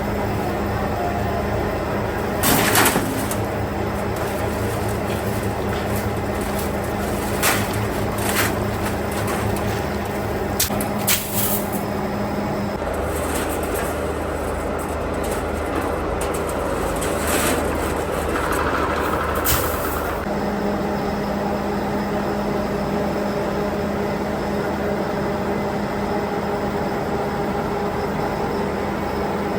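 Factory machinery running with a steady hum and a held tone that stops partway through and later returns. Sharp knocks come at irregular moments, and there is a short hiss about two-thirds of the way in.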